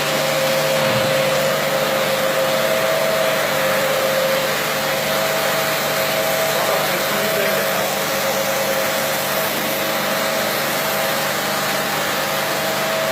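Carpet-washing machine running steadily: a rushing motor noise with a steady two-note whine.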